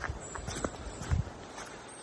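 Footsteps of a person walking at a steady pace on a path, about two steps a second, one heavier thud a little past the middle.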